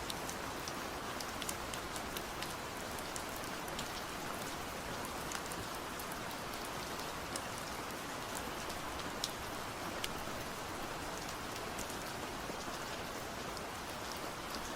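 Steady rain falling, a dense even hiss with scattered sharp drips and taps of drops hitting nearby surfaces.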